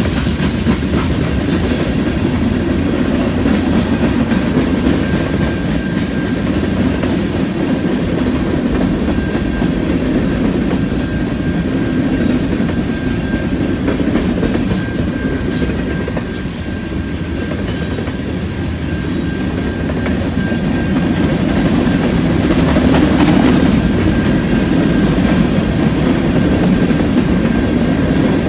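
Freight cars of a passing Canadian National freight train rolling by: a steady rumble of steel wheels on rail with clickety-clack over the rail joints, swelling a little near the end. A faint steady high whine runs through much of it.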